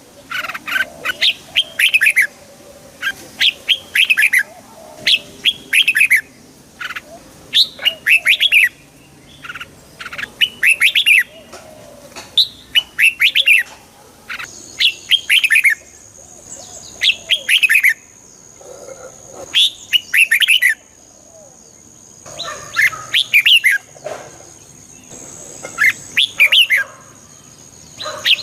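Red-whiskered bulbul singing: short, quick phrases of falling whistled notes, repeated about once a second with a few brief pauses.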